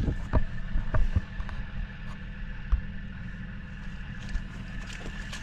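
An engine idling steadily, with a few light clicks and knocks over it.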